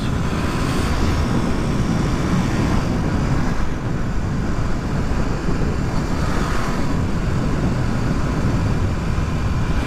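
Suzuki DR250 single-cylinder thumper running steadily at road speed, mixed with a constant rush of riding wind.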